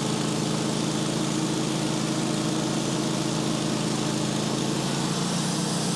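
Sawmill's engine running steadily, with its pitch shifting slightly about five seconds in.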